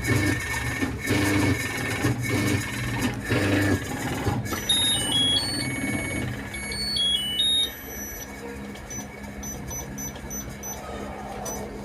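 A motor run by a washing machine control board on the test bench, hum in pulses about once a second, then stopping. Short electronic tones follow: a quick stepped tune, then repeated high beeps.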